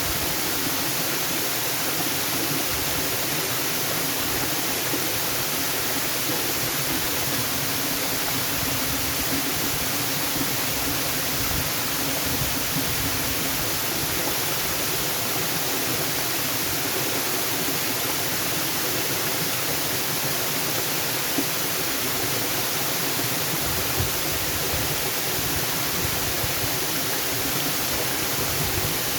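Waterfall: water falling and splashing in a steady, dense rush with no pauses.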